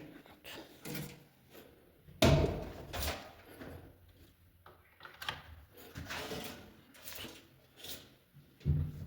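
Irregular knocks and thuds, with a heavy thump about two seconds in and another near the end.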